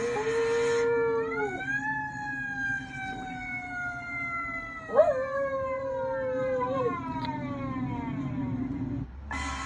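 A dog howls along with a fire truck siren. The siren winds slowly down in a long falling wail, while the dog holds a wavering howl at the start and again about five seconds in. The loud blare of the siren comes back near the end.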